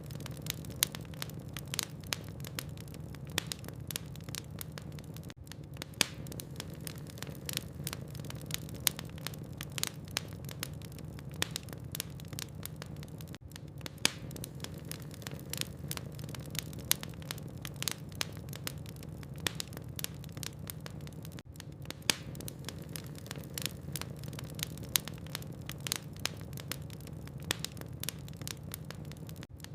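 Logs burning in a fireplace, crackling with many irregular sharp pops and snaps over a steady low rumble of the flames.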